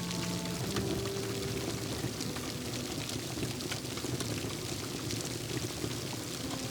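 Steady rain with scattered sharp crackles and pops from a wood fire in a fireplace. A few soft, sustained music notes sit underneath.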